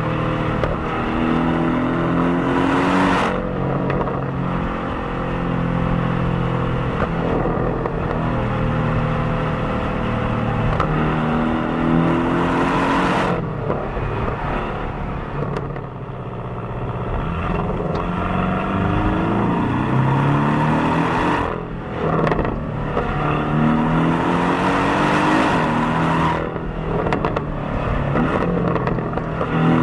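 Porsche 718 Cayman's turbocharged 2.0-litre flat-four engine and stock exhaust pulling hard several times, the revs climbing and then dropping sharply at each upshift or lift-off, with easier cruising stretches between.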